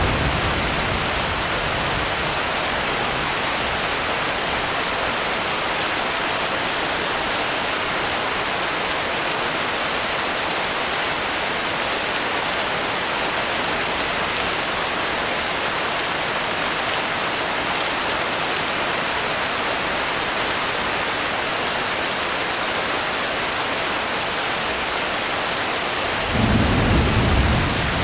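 Steady heavy rain hissing without a break. A low rumble of thunder fades out at the start, and another, louder one rolls in near the end.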